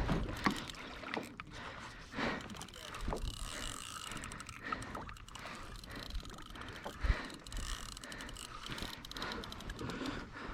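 Irregular knocks, clicks and rattles of gear being handled on a plastic fishing kayak, over the hiss of water and wind.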